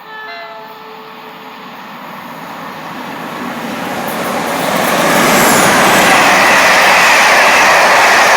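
A train approaching through the station, its wheel and engine noise swelling over about five seconds into a loud, steady rush, with faint high wheel squeal as it arrives. A short pitched tone sounds right at the start.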